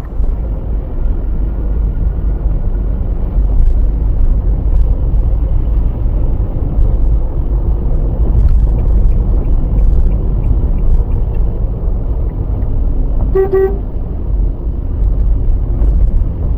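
Loud, steady low rumble of a car driving, as picked up by a dashcam, with a short car horn toot near the end.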